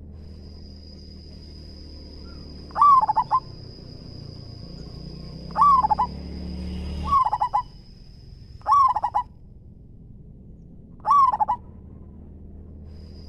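Zebra dove (perkutut) cooing: five short rolling coos a few seconds apart, each a quick cluster of notes. A thin, steady high whine sounds behind them, and a low rumble builds up and then stops abruptly about halfway through.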